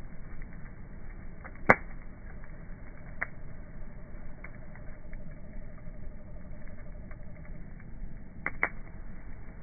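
Wood bonfire crackling, with a few sharp pops: a loud one just under two seconds in, a smaller one a second later, and a quick pair near the end.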